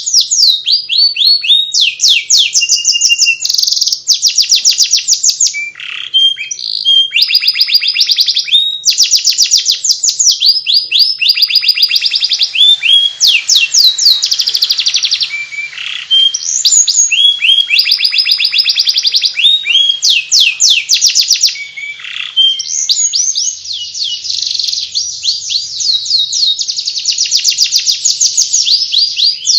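Domestic canary singing a continuous twittering 'ngeriwik' song: fast runs of repeated high notes and trills, phrase after phrase without a break.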